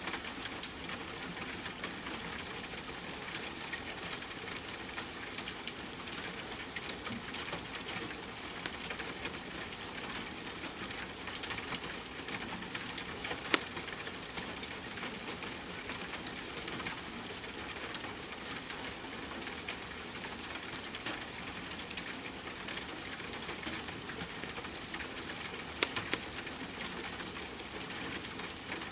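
Steady hiss of rain mixed with the crackle of a wood fire in a fireplace, with a few sharp pops, the loudest about halfway through.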